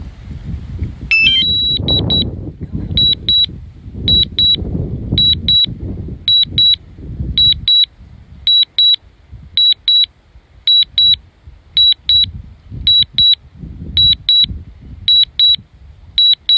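DJI Mavic Mini remote controller beeping steadily in pairs of high beeps, about one pair a second, after a short rising alert tone about a second in: the alert that return-to-home is under way. Wind buffets the microphone underneath.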